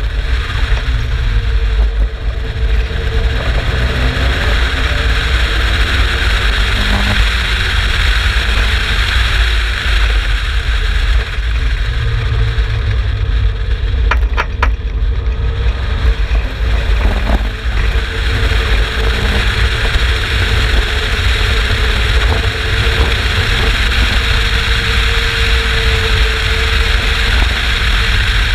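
Exocet kit car's turbocharged Mazda MX-5 BP four-cylinder engine running under way on track. A loud, steady mix of engine and rumble, with a few short clicks about halfway through.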